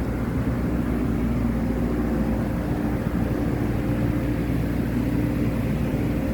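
Boat engine running at a steady speed, an even drone with a held hum.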